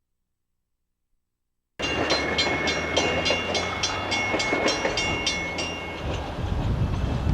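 About two seconds in, the sound cuts in abruptly: a Canadian Pacific freight train passing with a low rumble. Over it runs a rapid, even, high-pitched ticking of about four a second, which stops about six seconds in and leaves the rumble.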